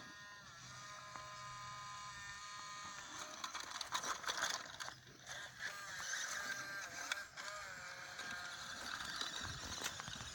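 Radio-controlled military truck driving over rough ground: a motor whine that rises and falls in pitch, with crunching and rattling loudest a few seconds in.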